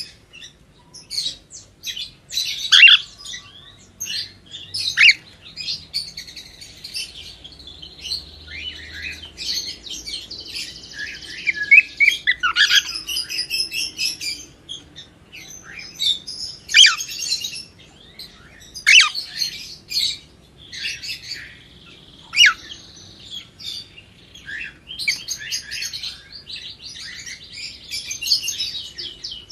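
A cockatiel chirping and whistling: a string of short chirps with sharp, falling call notes every few seconds, mixed with longer warbling stretches.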